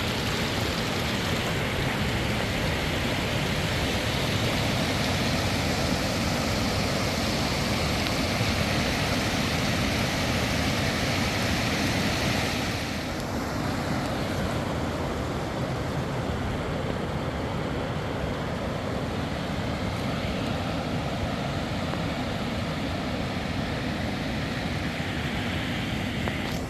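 Mountain river rushing: a steady, loud roar of fast-flowing water. About halfway through it turns slightly quieter and duller.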